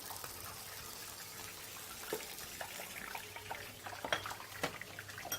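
Oiled chicken pieces sizzling on a grill, a steady hiss with a few light clicks of utensils or seasoning tins from about halfway through.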